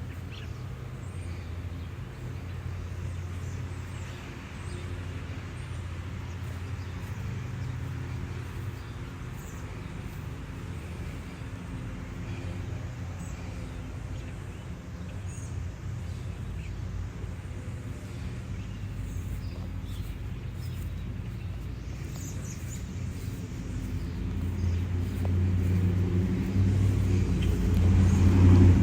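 A motor engine running steadily with a low hum, growing louder over the last few seconds, with faint bird chirps.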